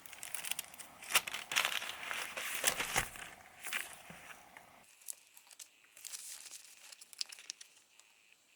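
Wax paper crinkling and rustling as it is handled, busiest for the first five seconds or so, then fading to a few faint rustles.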